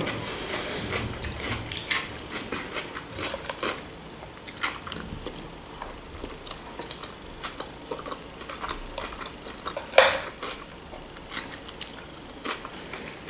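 Quiet, close-up chewing and biting of a person eating pasta, sausage and cucumber salad from a fork. Many small mouth clicks run through it, with one sharper click about ten seconds in.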